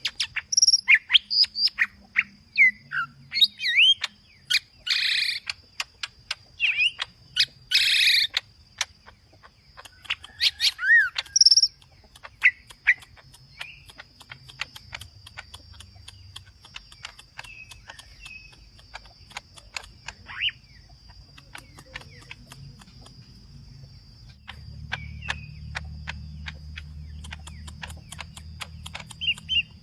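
Green leafbird (cucak ijo) singing in loud, varied bursts of chirps and whistled glides. It is busiest for the first dozen seconds, then sings in sparser calls, with many sharp ticks in between.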